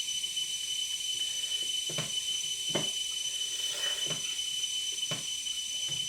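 Eating sounds at the table: a handful of short, irregular clicks and smacks from chewing and utensils, over a steady high hiss with a thin high whine.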